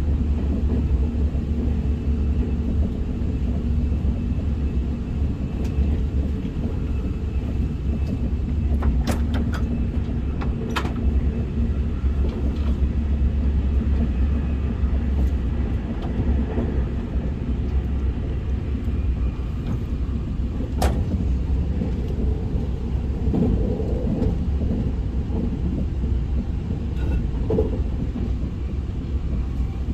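SR 120000 series high-speed train heard from inside the passenger cabin while running at speed: a steady low rumble, with a few brief clicks about a third of the way in and another about two-thirds in.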